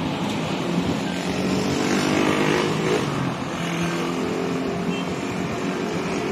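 Motor vehicle engine running close by over steady traffic noise, swelling to its loudest about two to three seconds in as it passes.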